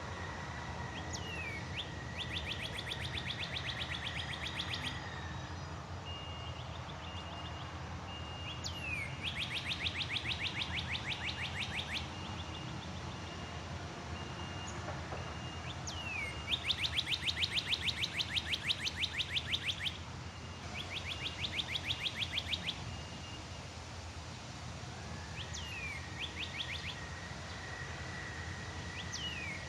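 A songbird repeatedly sings the same phrase: a sharp downward-sliding whistle, then a fast even trill of many notes lasting about three seconds, four times over. A steady high thin tone and a low background rumble run underneath.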